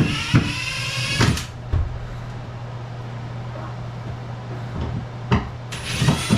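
Power drill spinning in short runs with a high whine, backing screws out of cement board, with scattered knocks and scrapes of the board and tools in between. A steady low hum runs underneath.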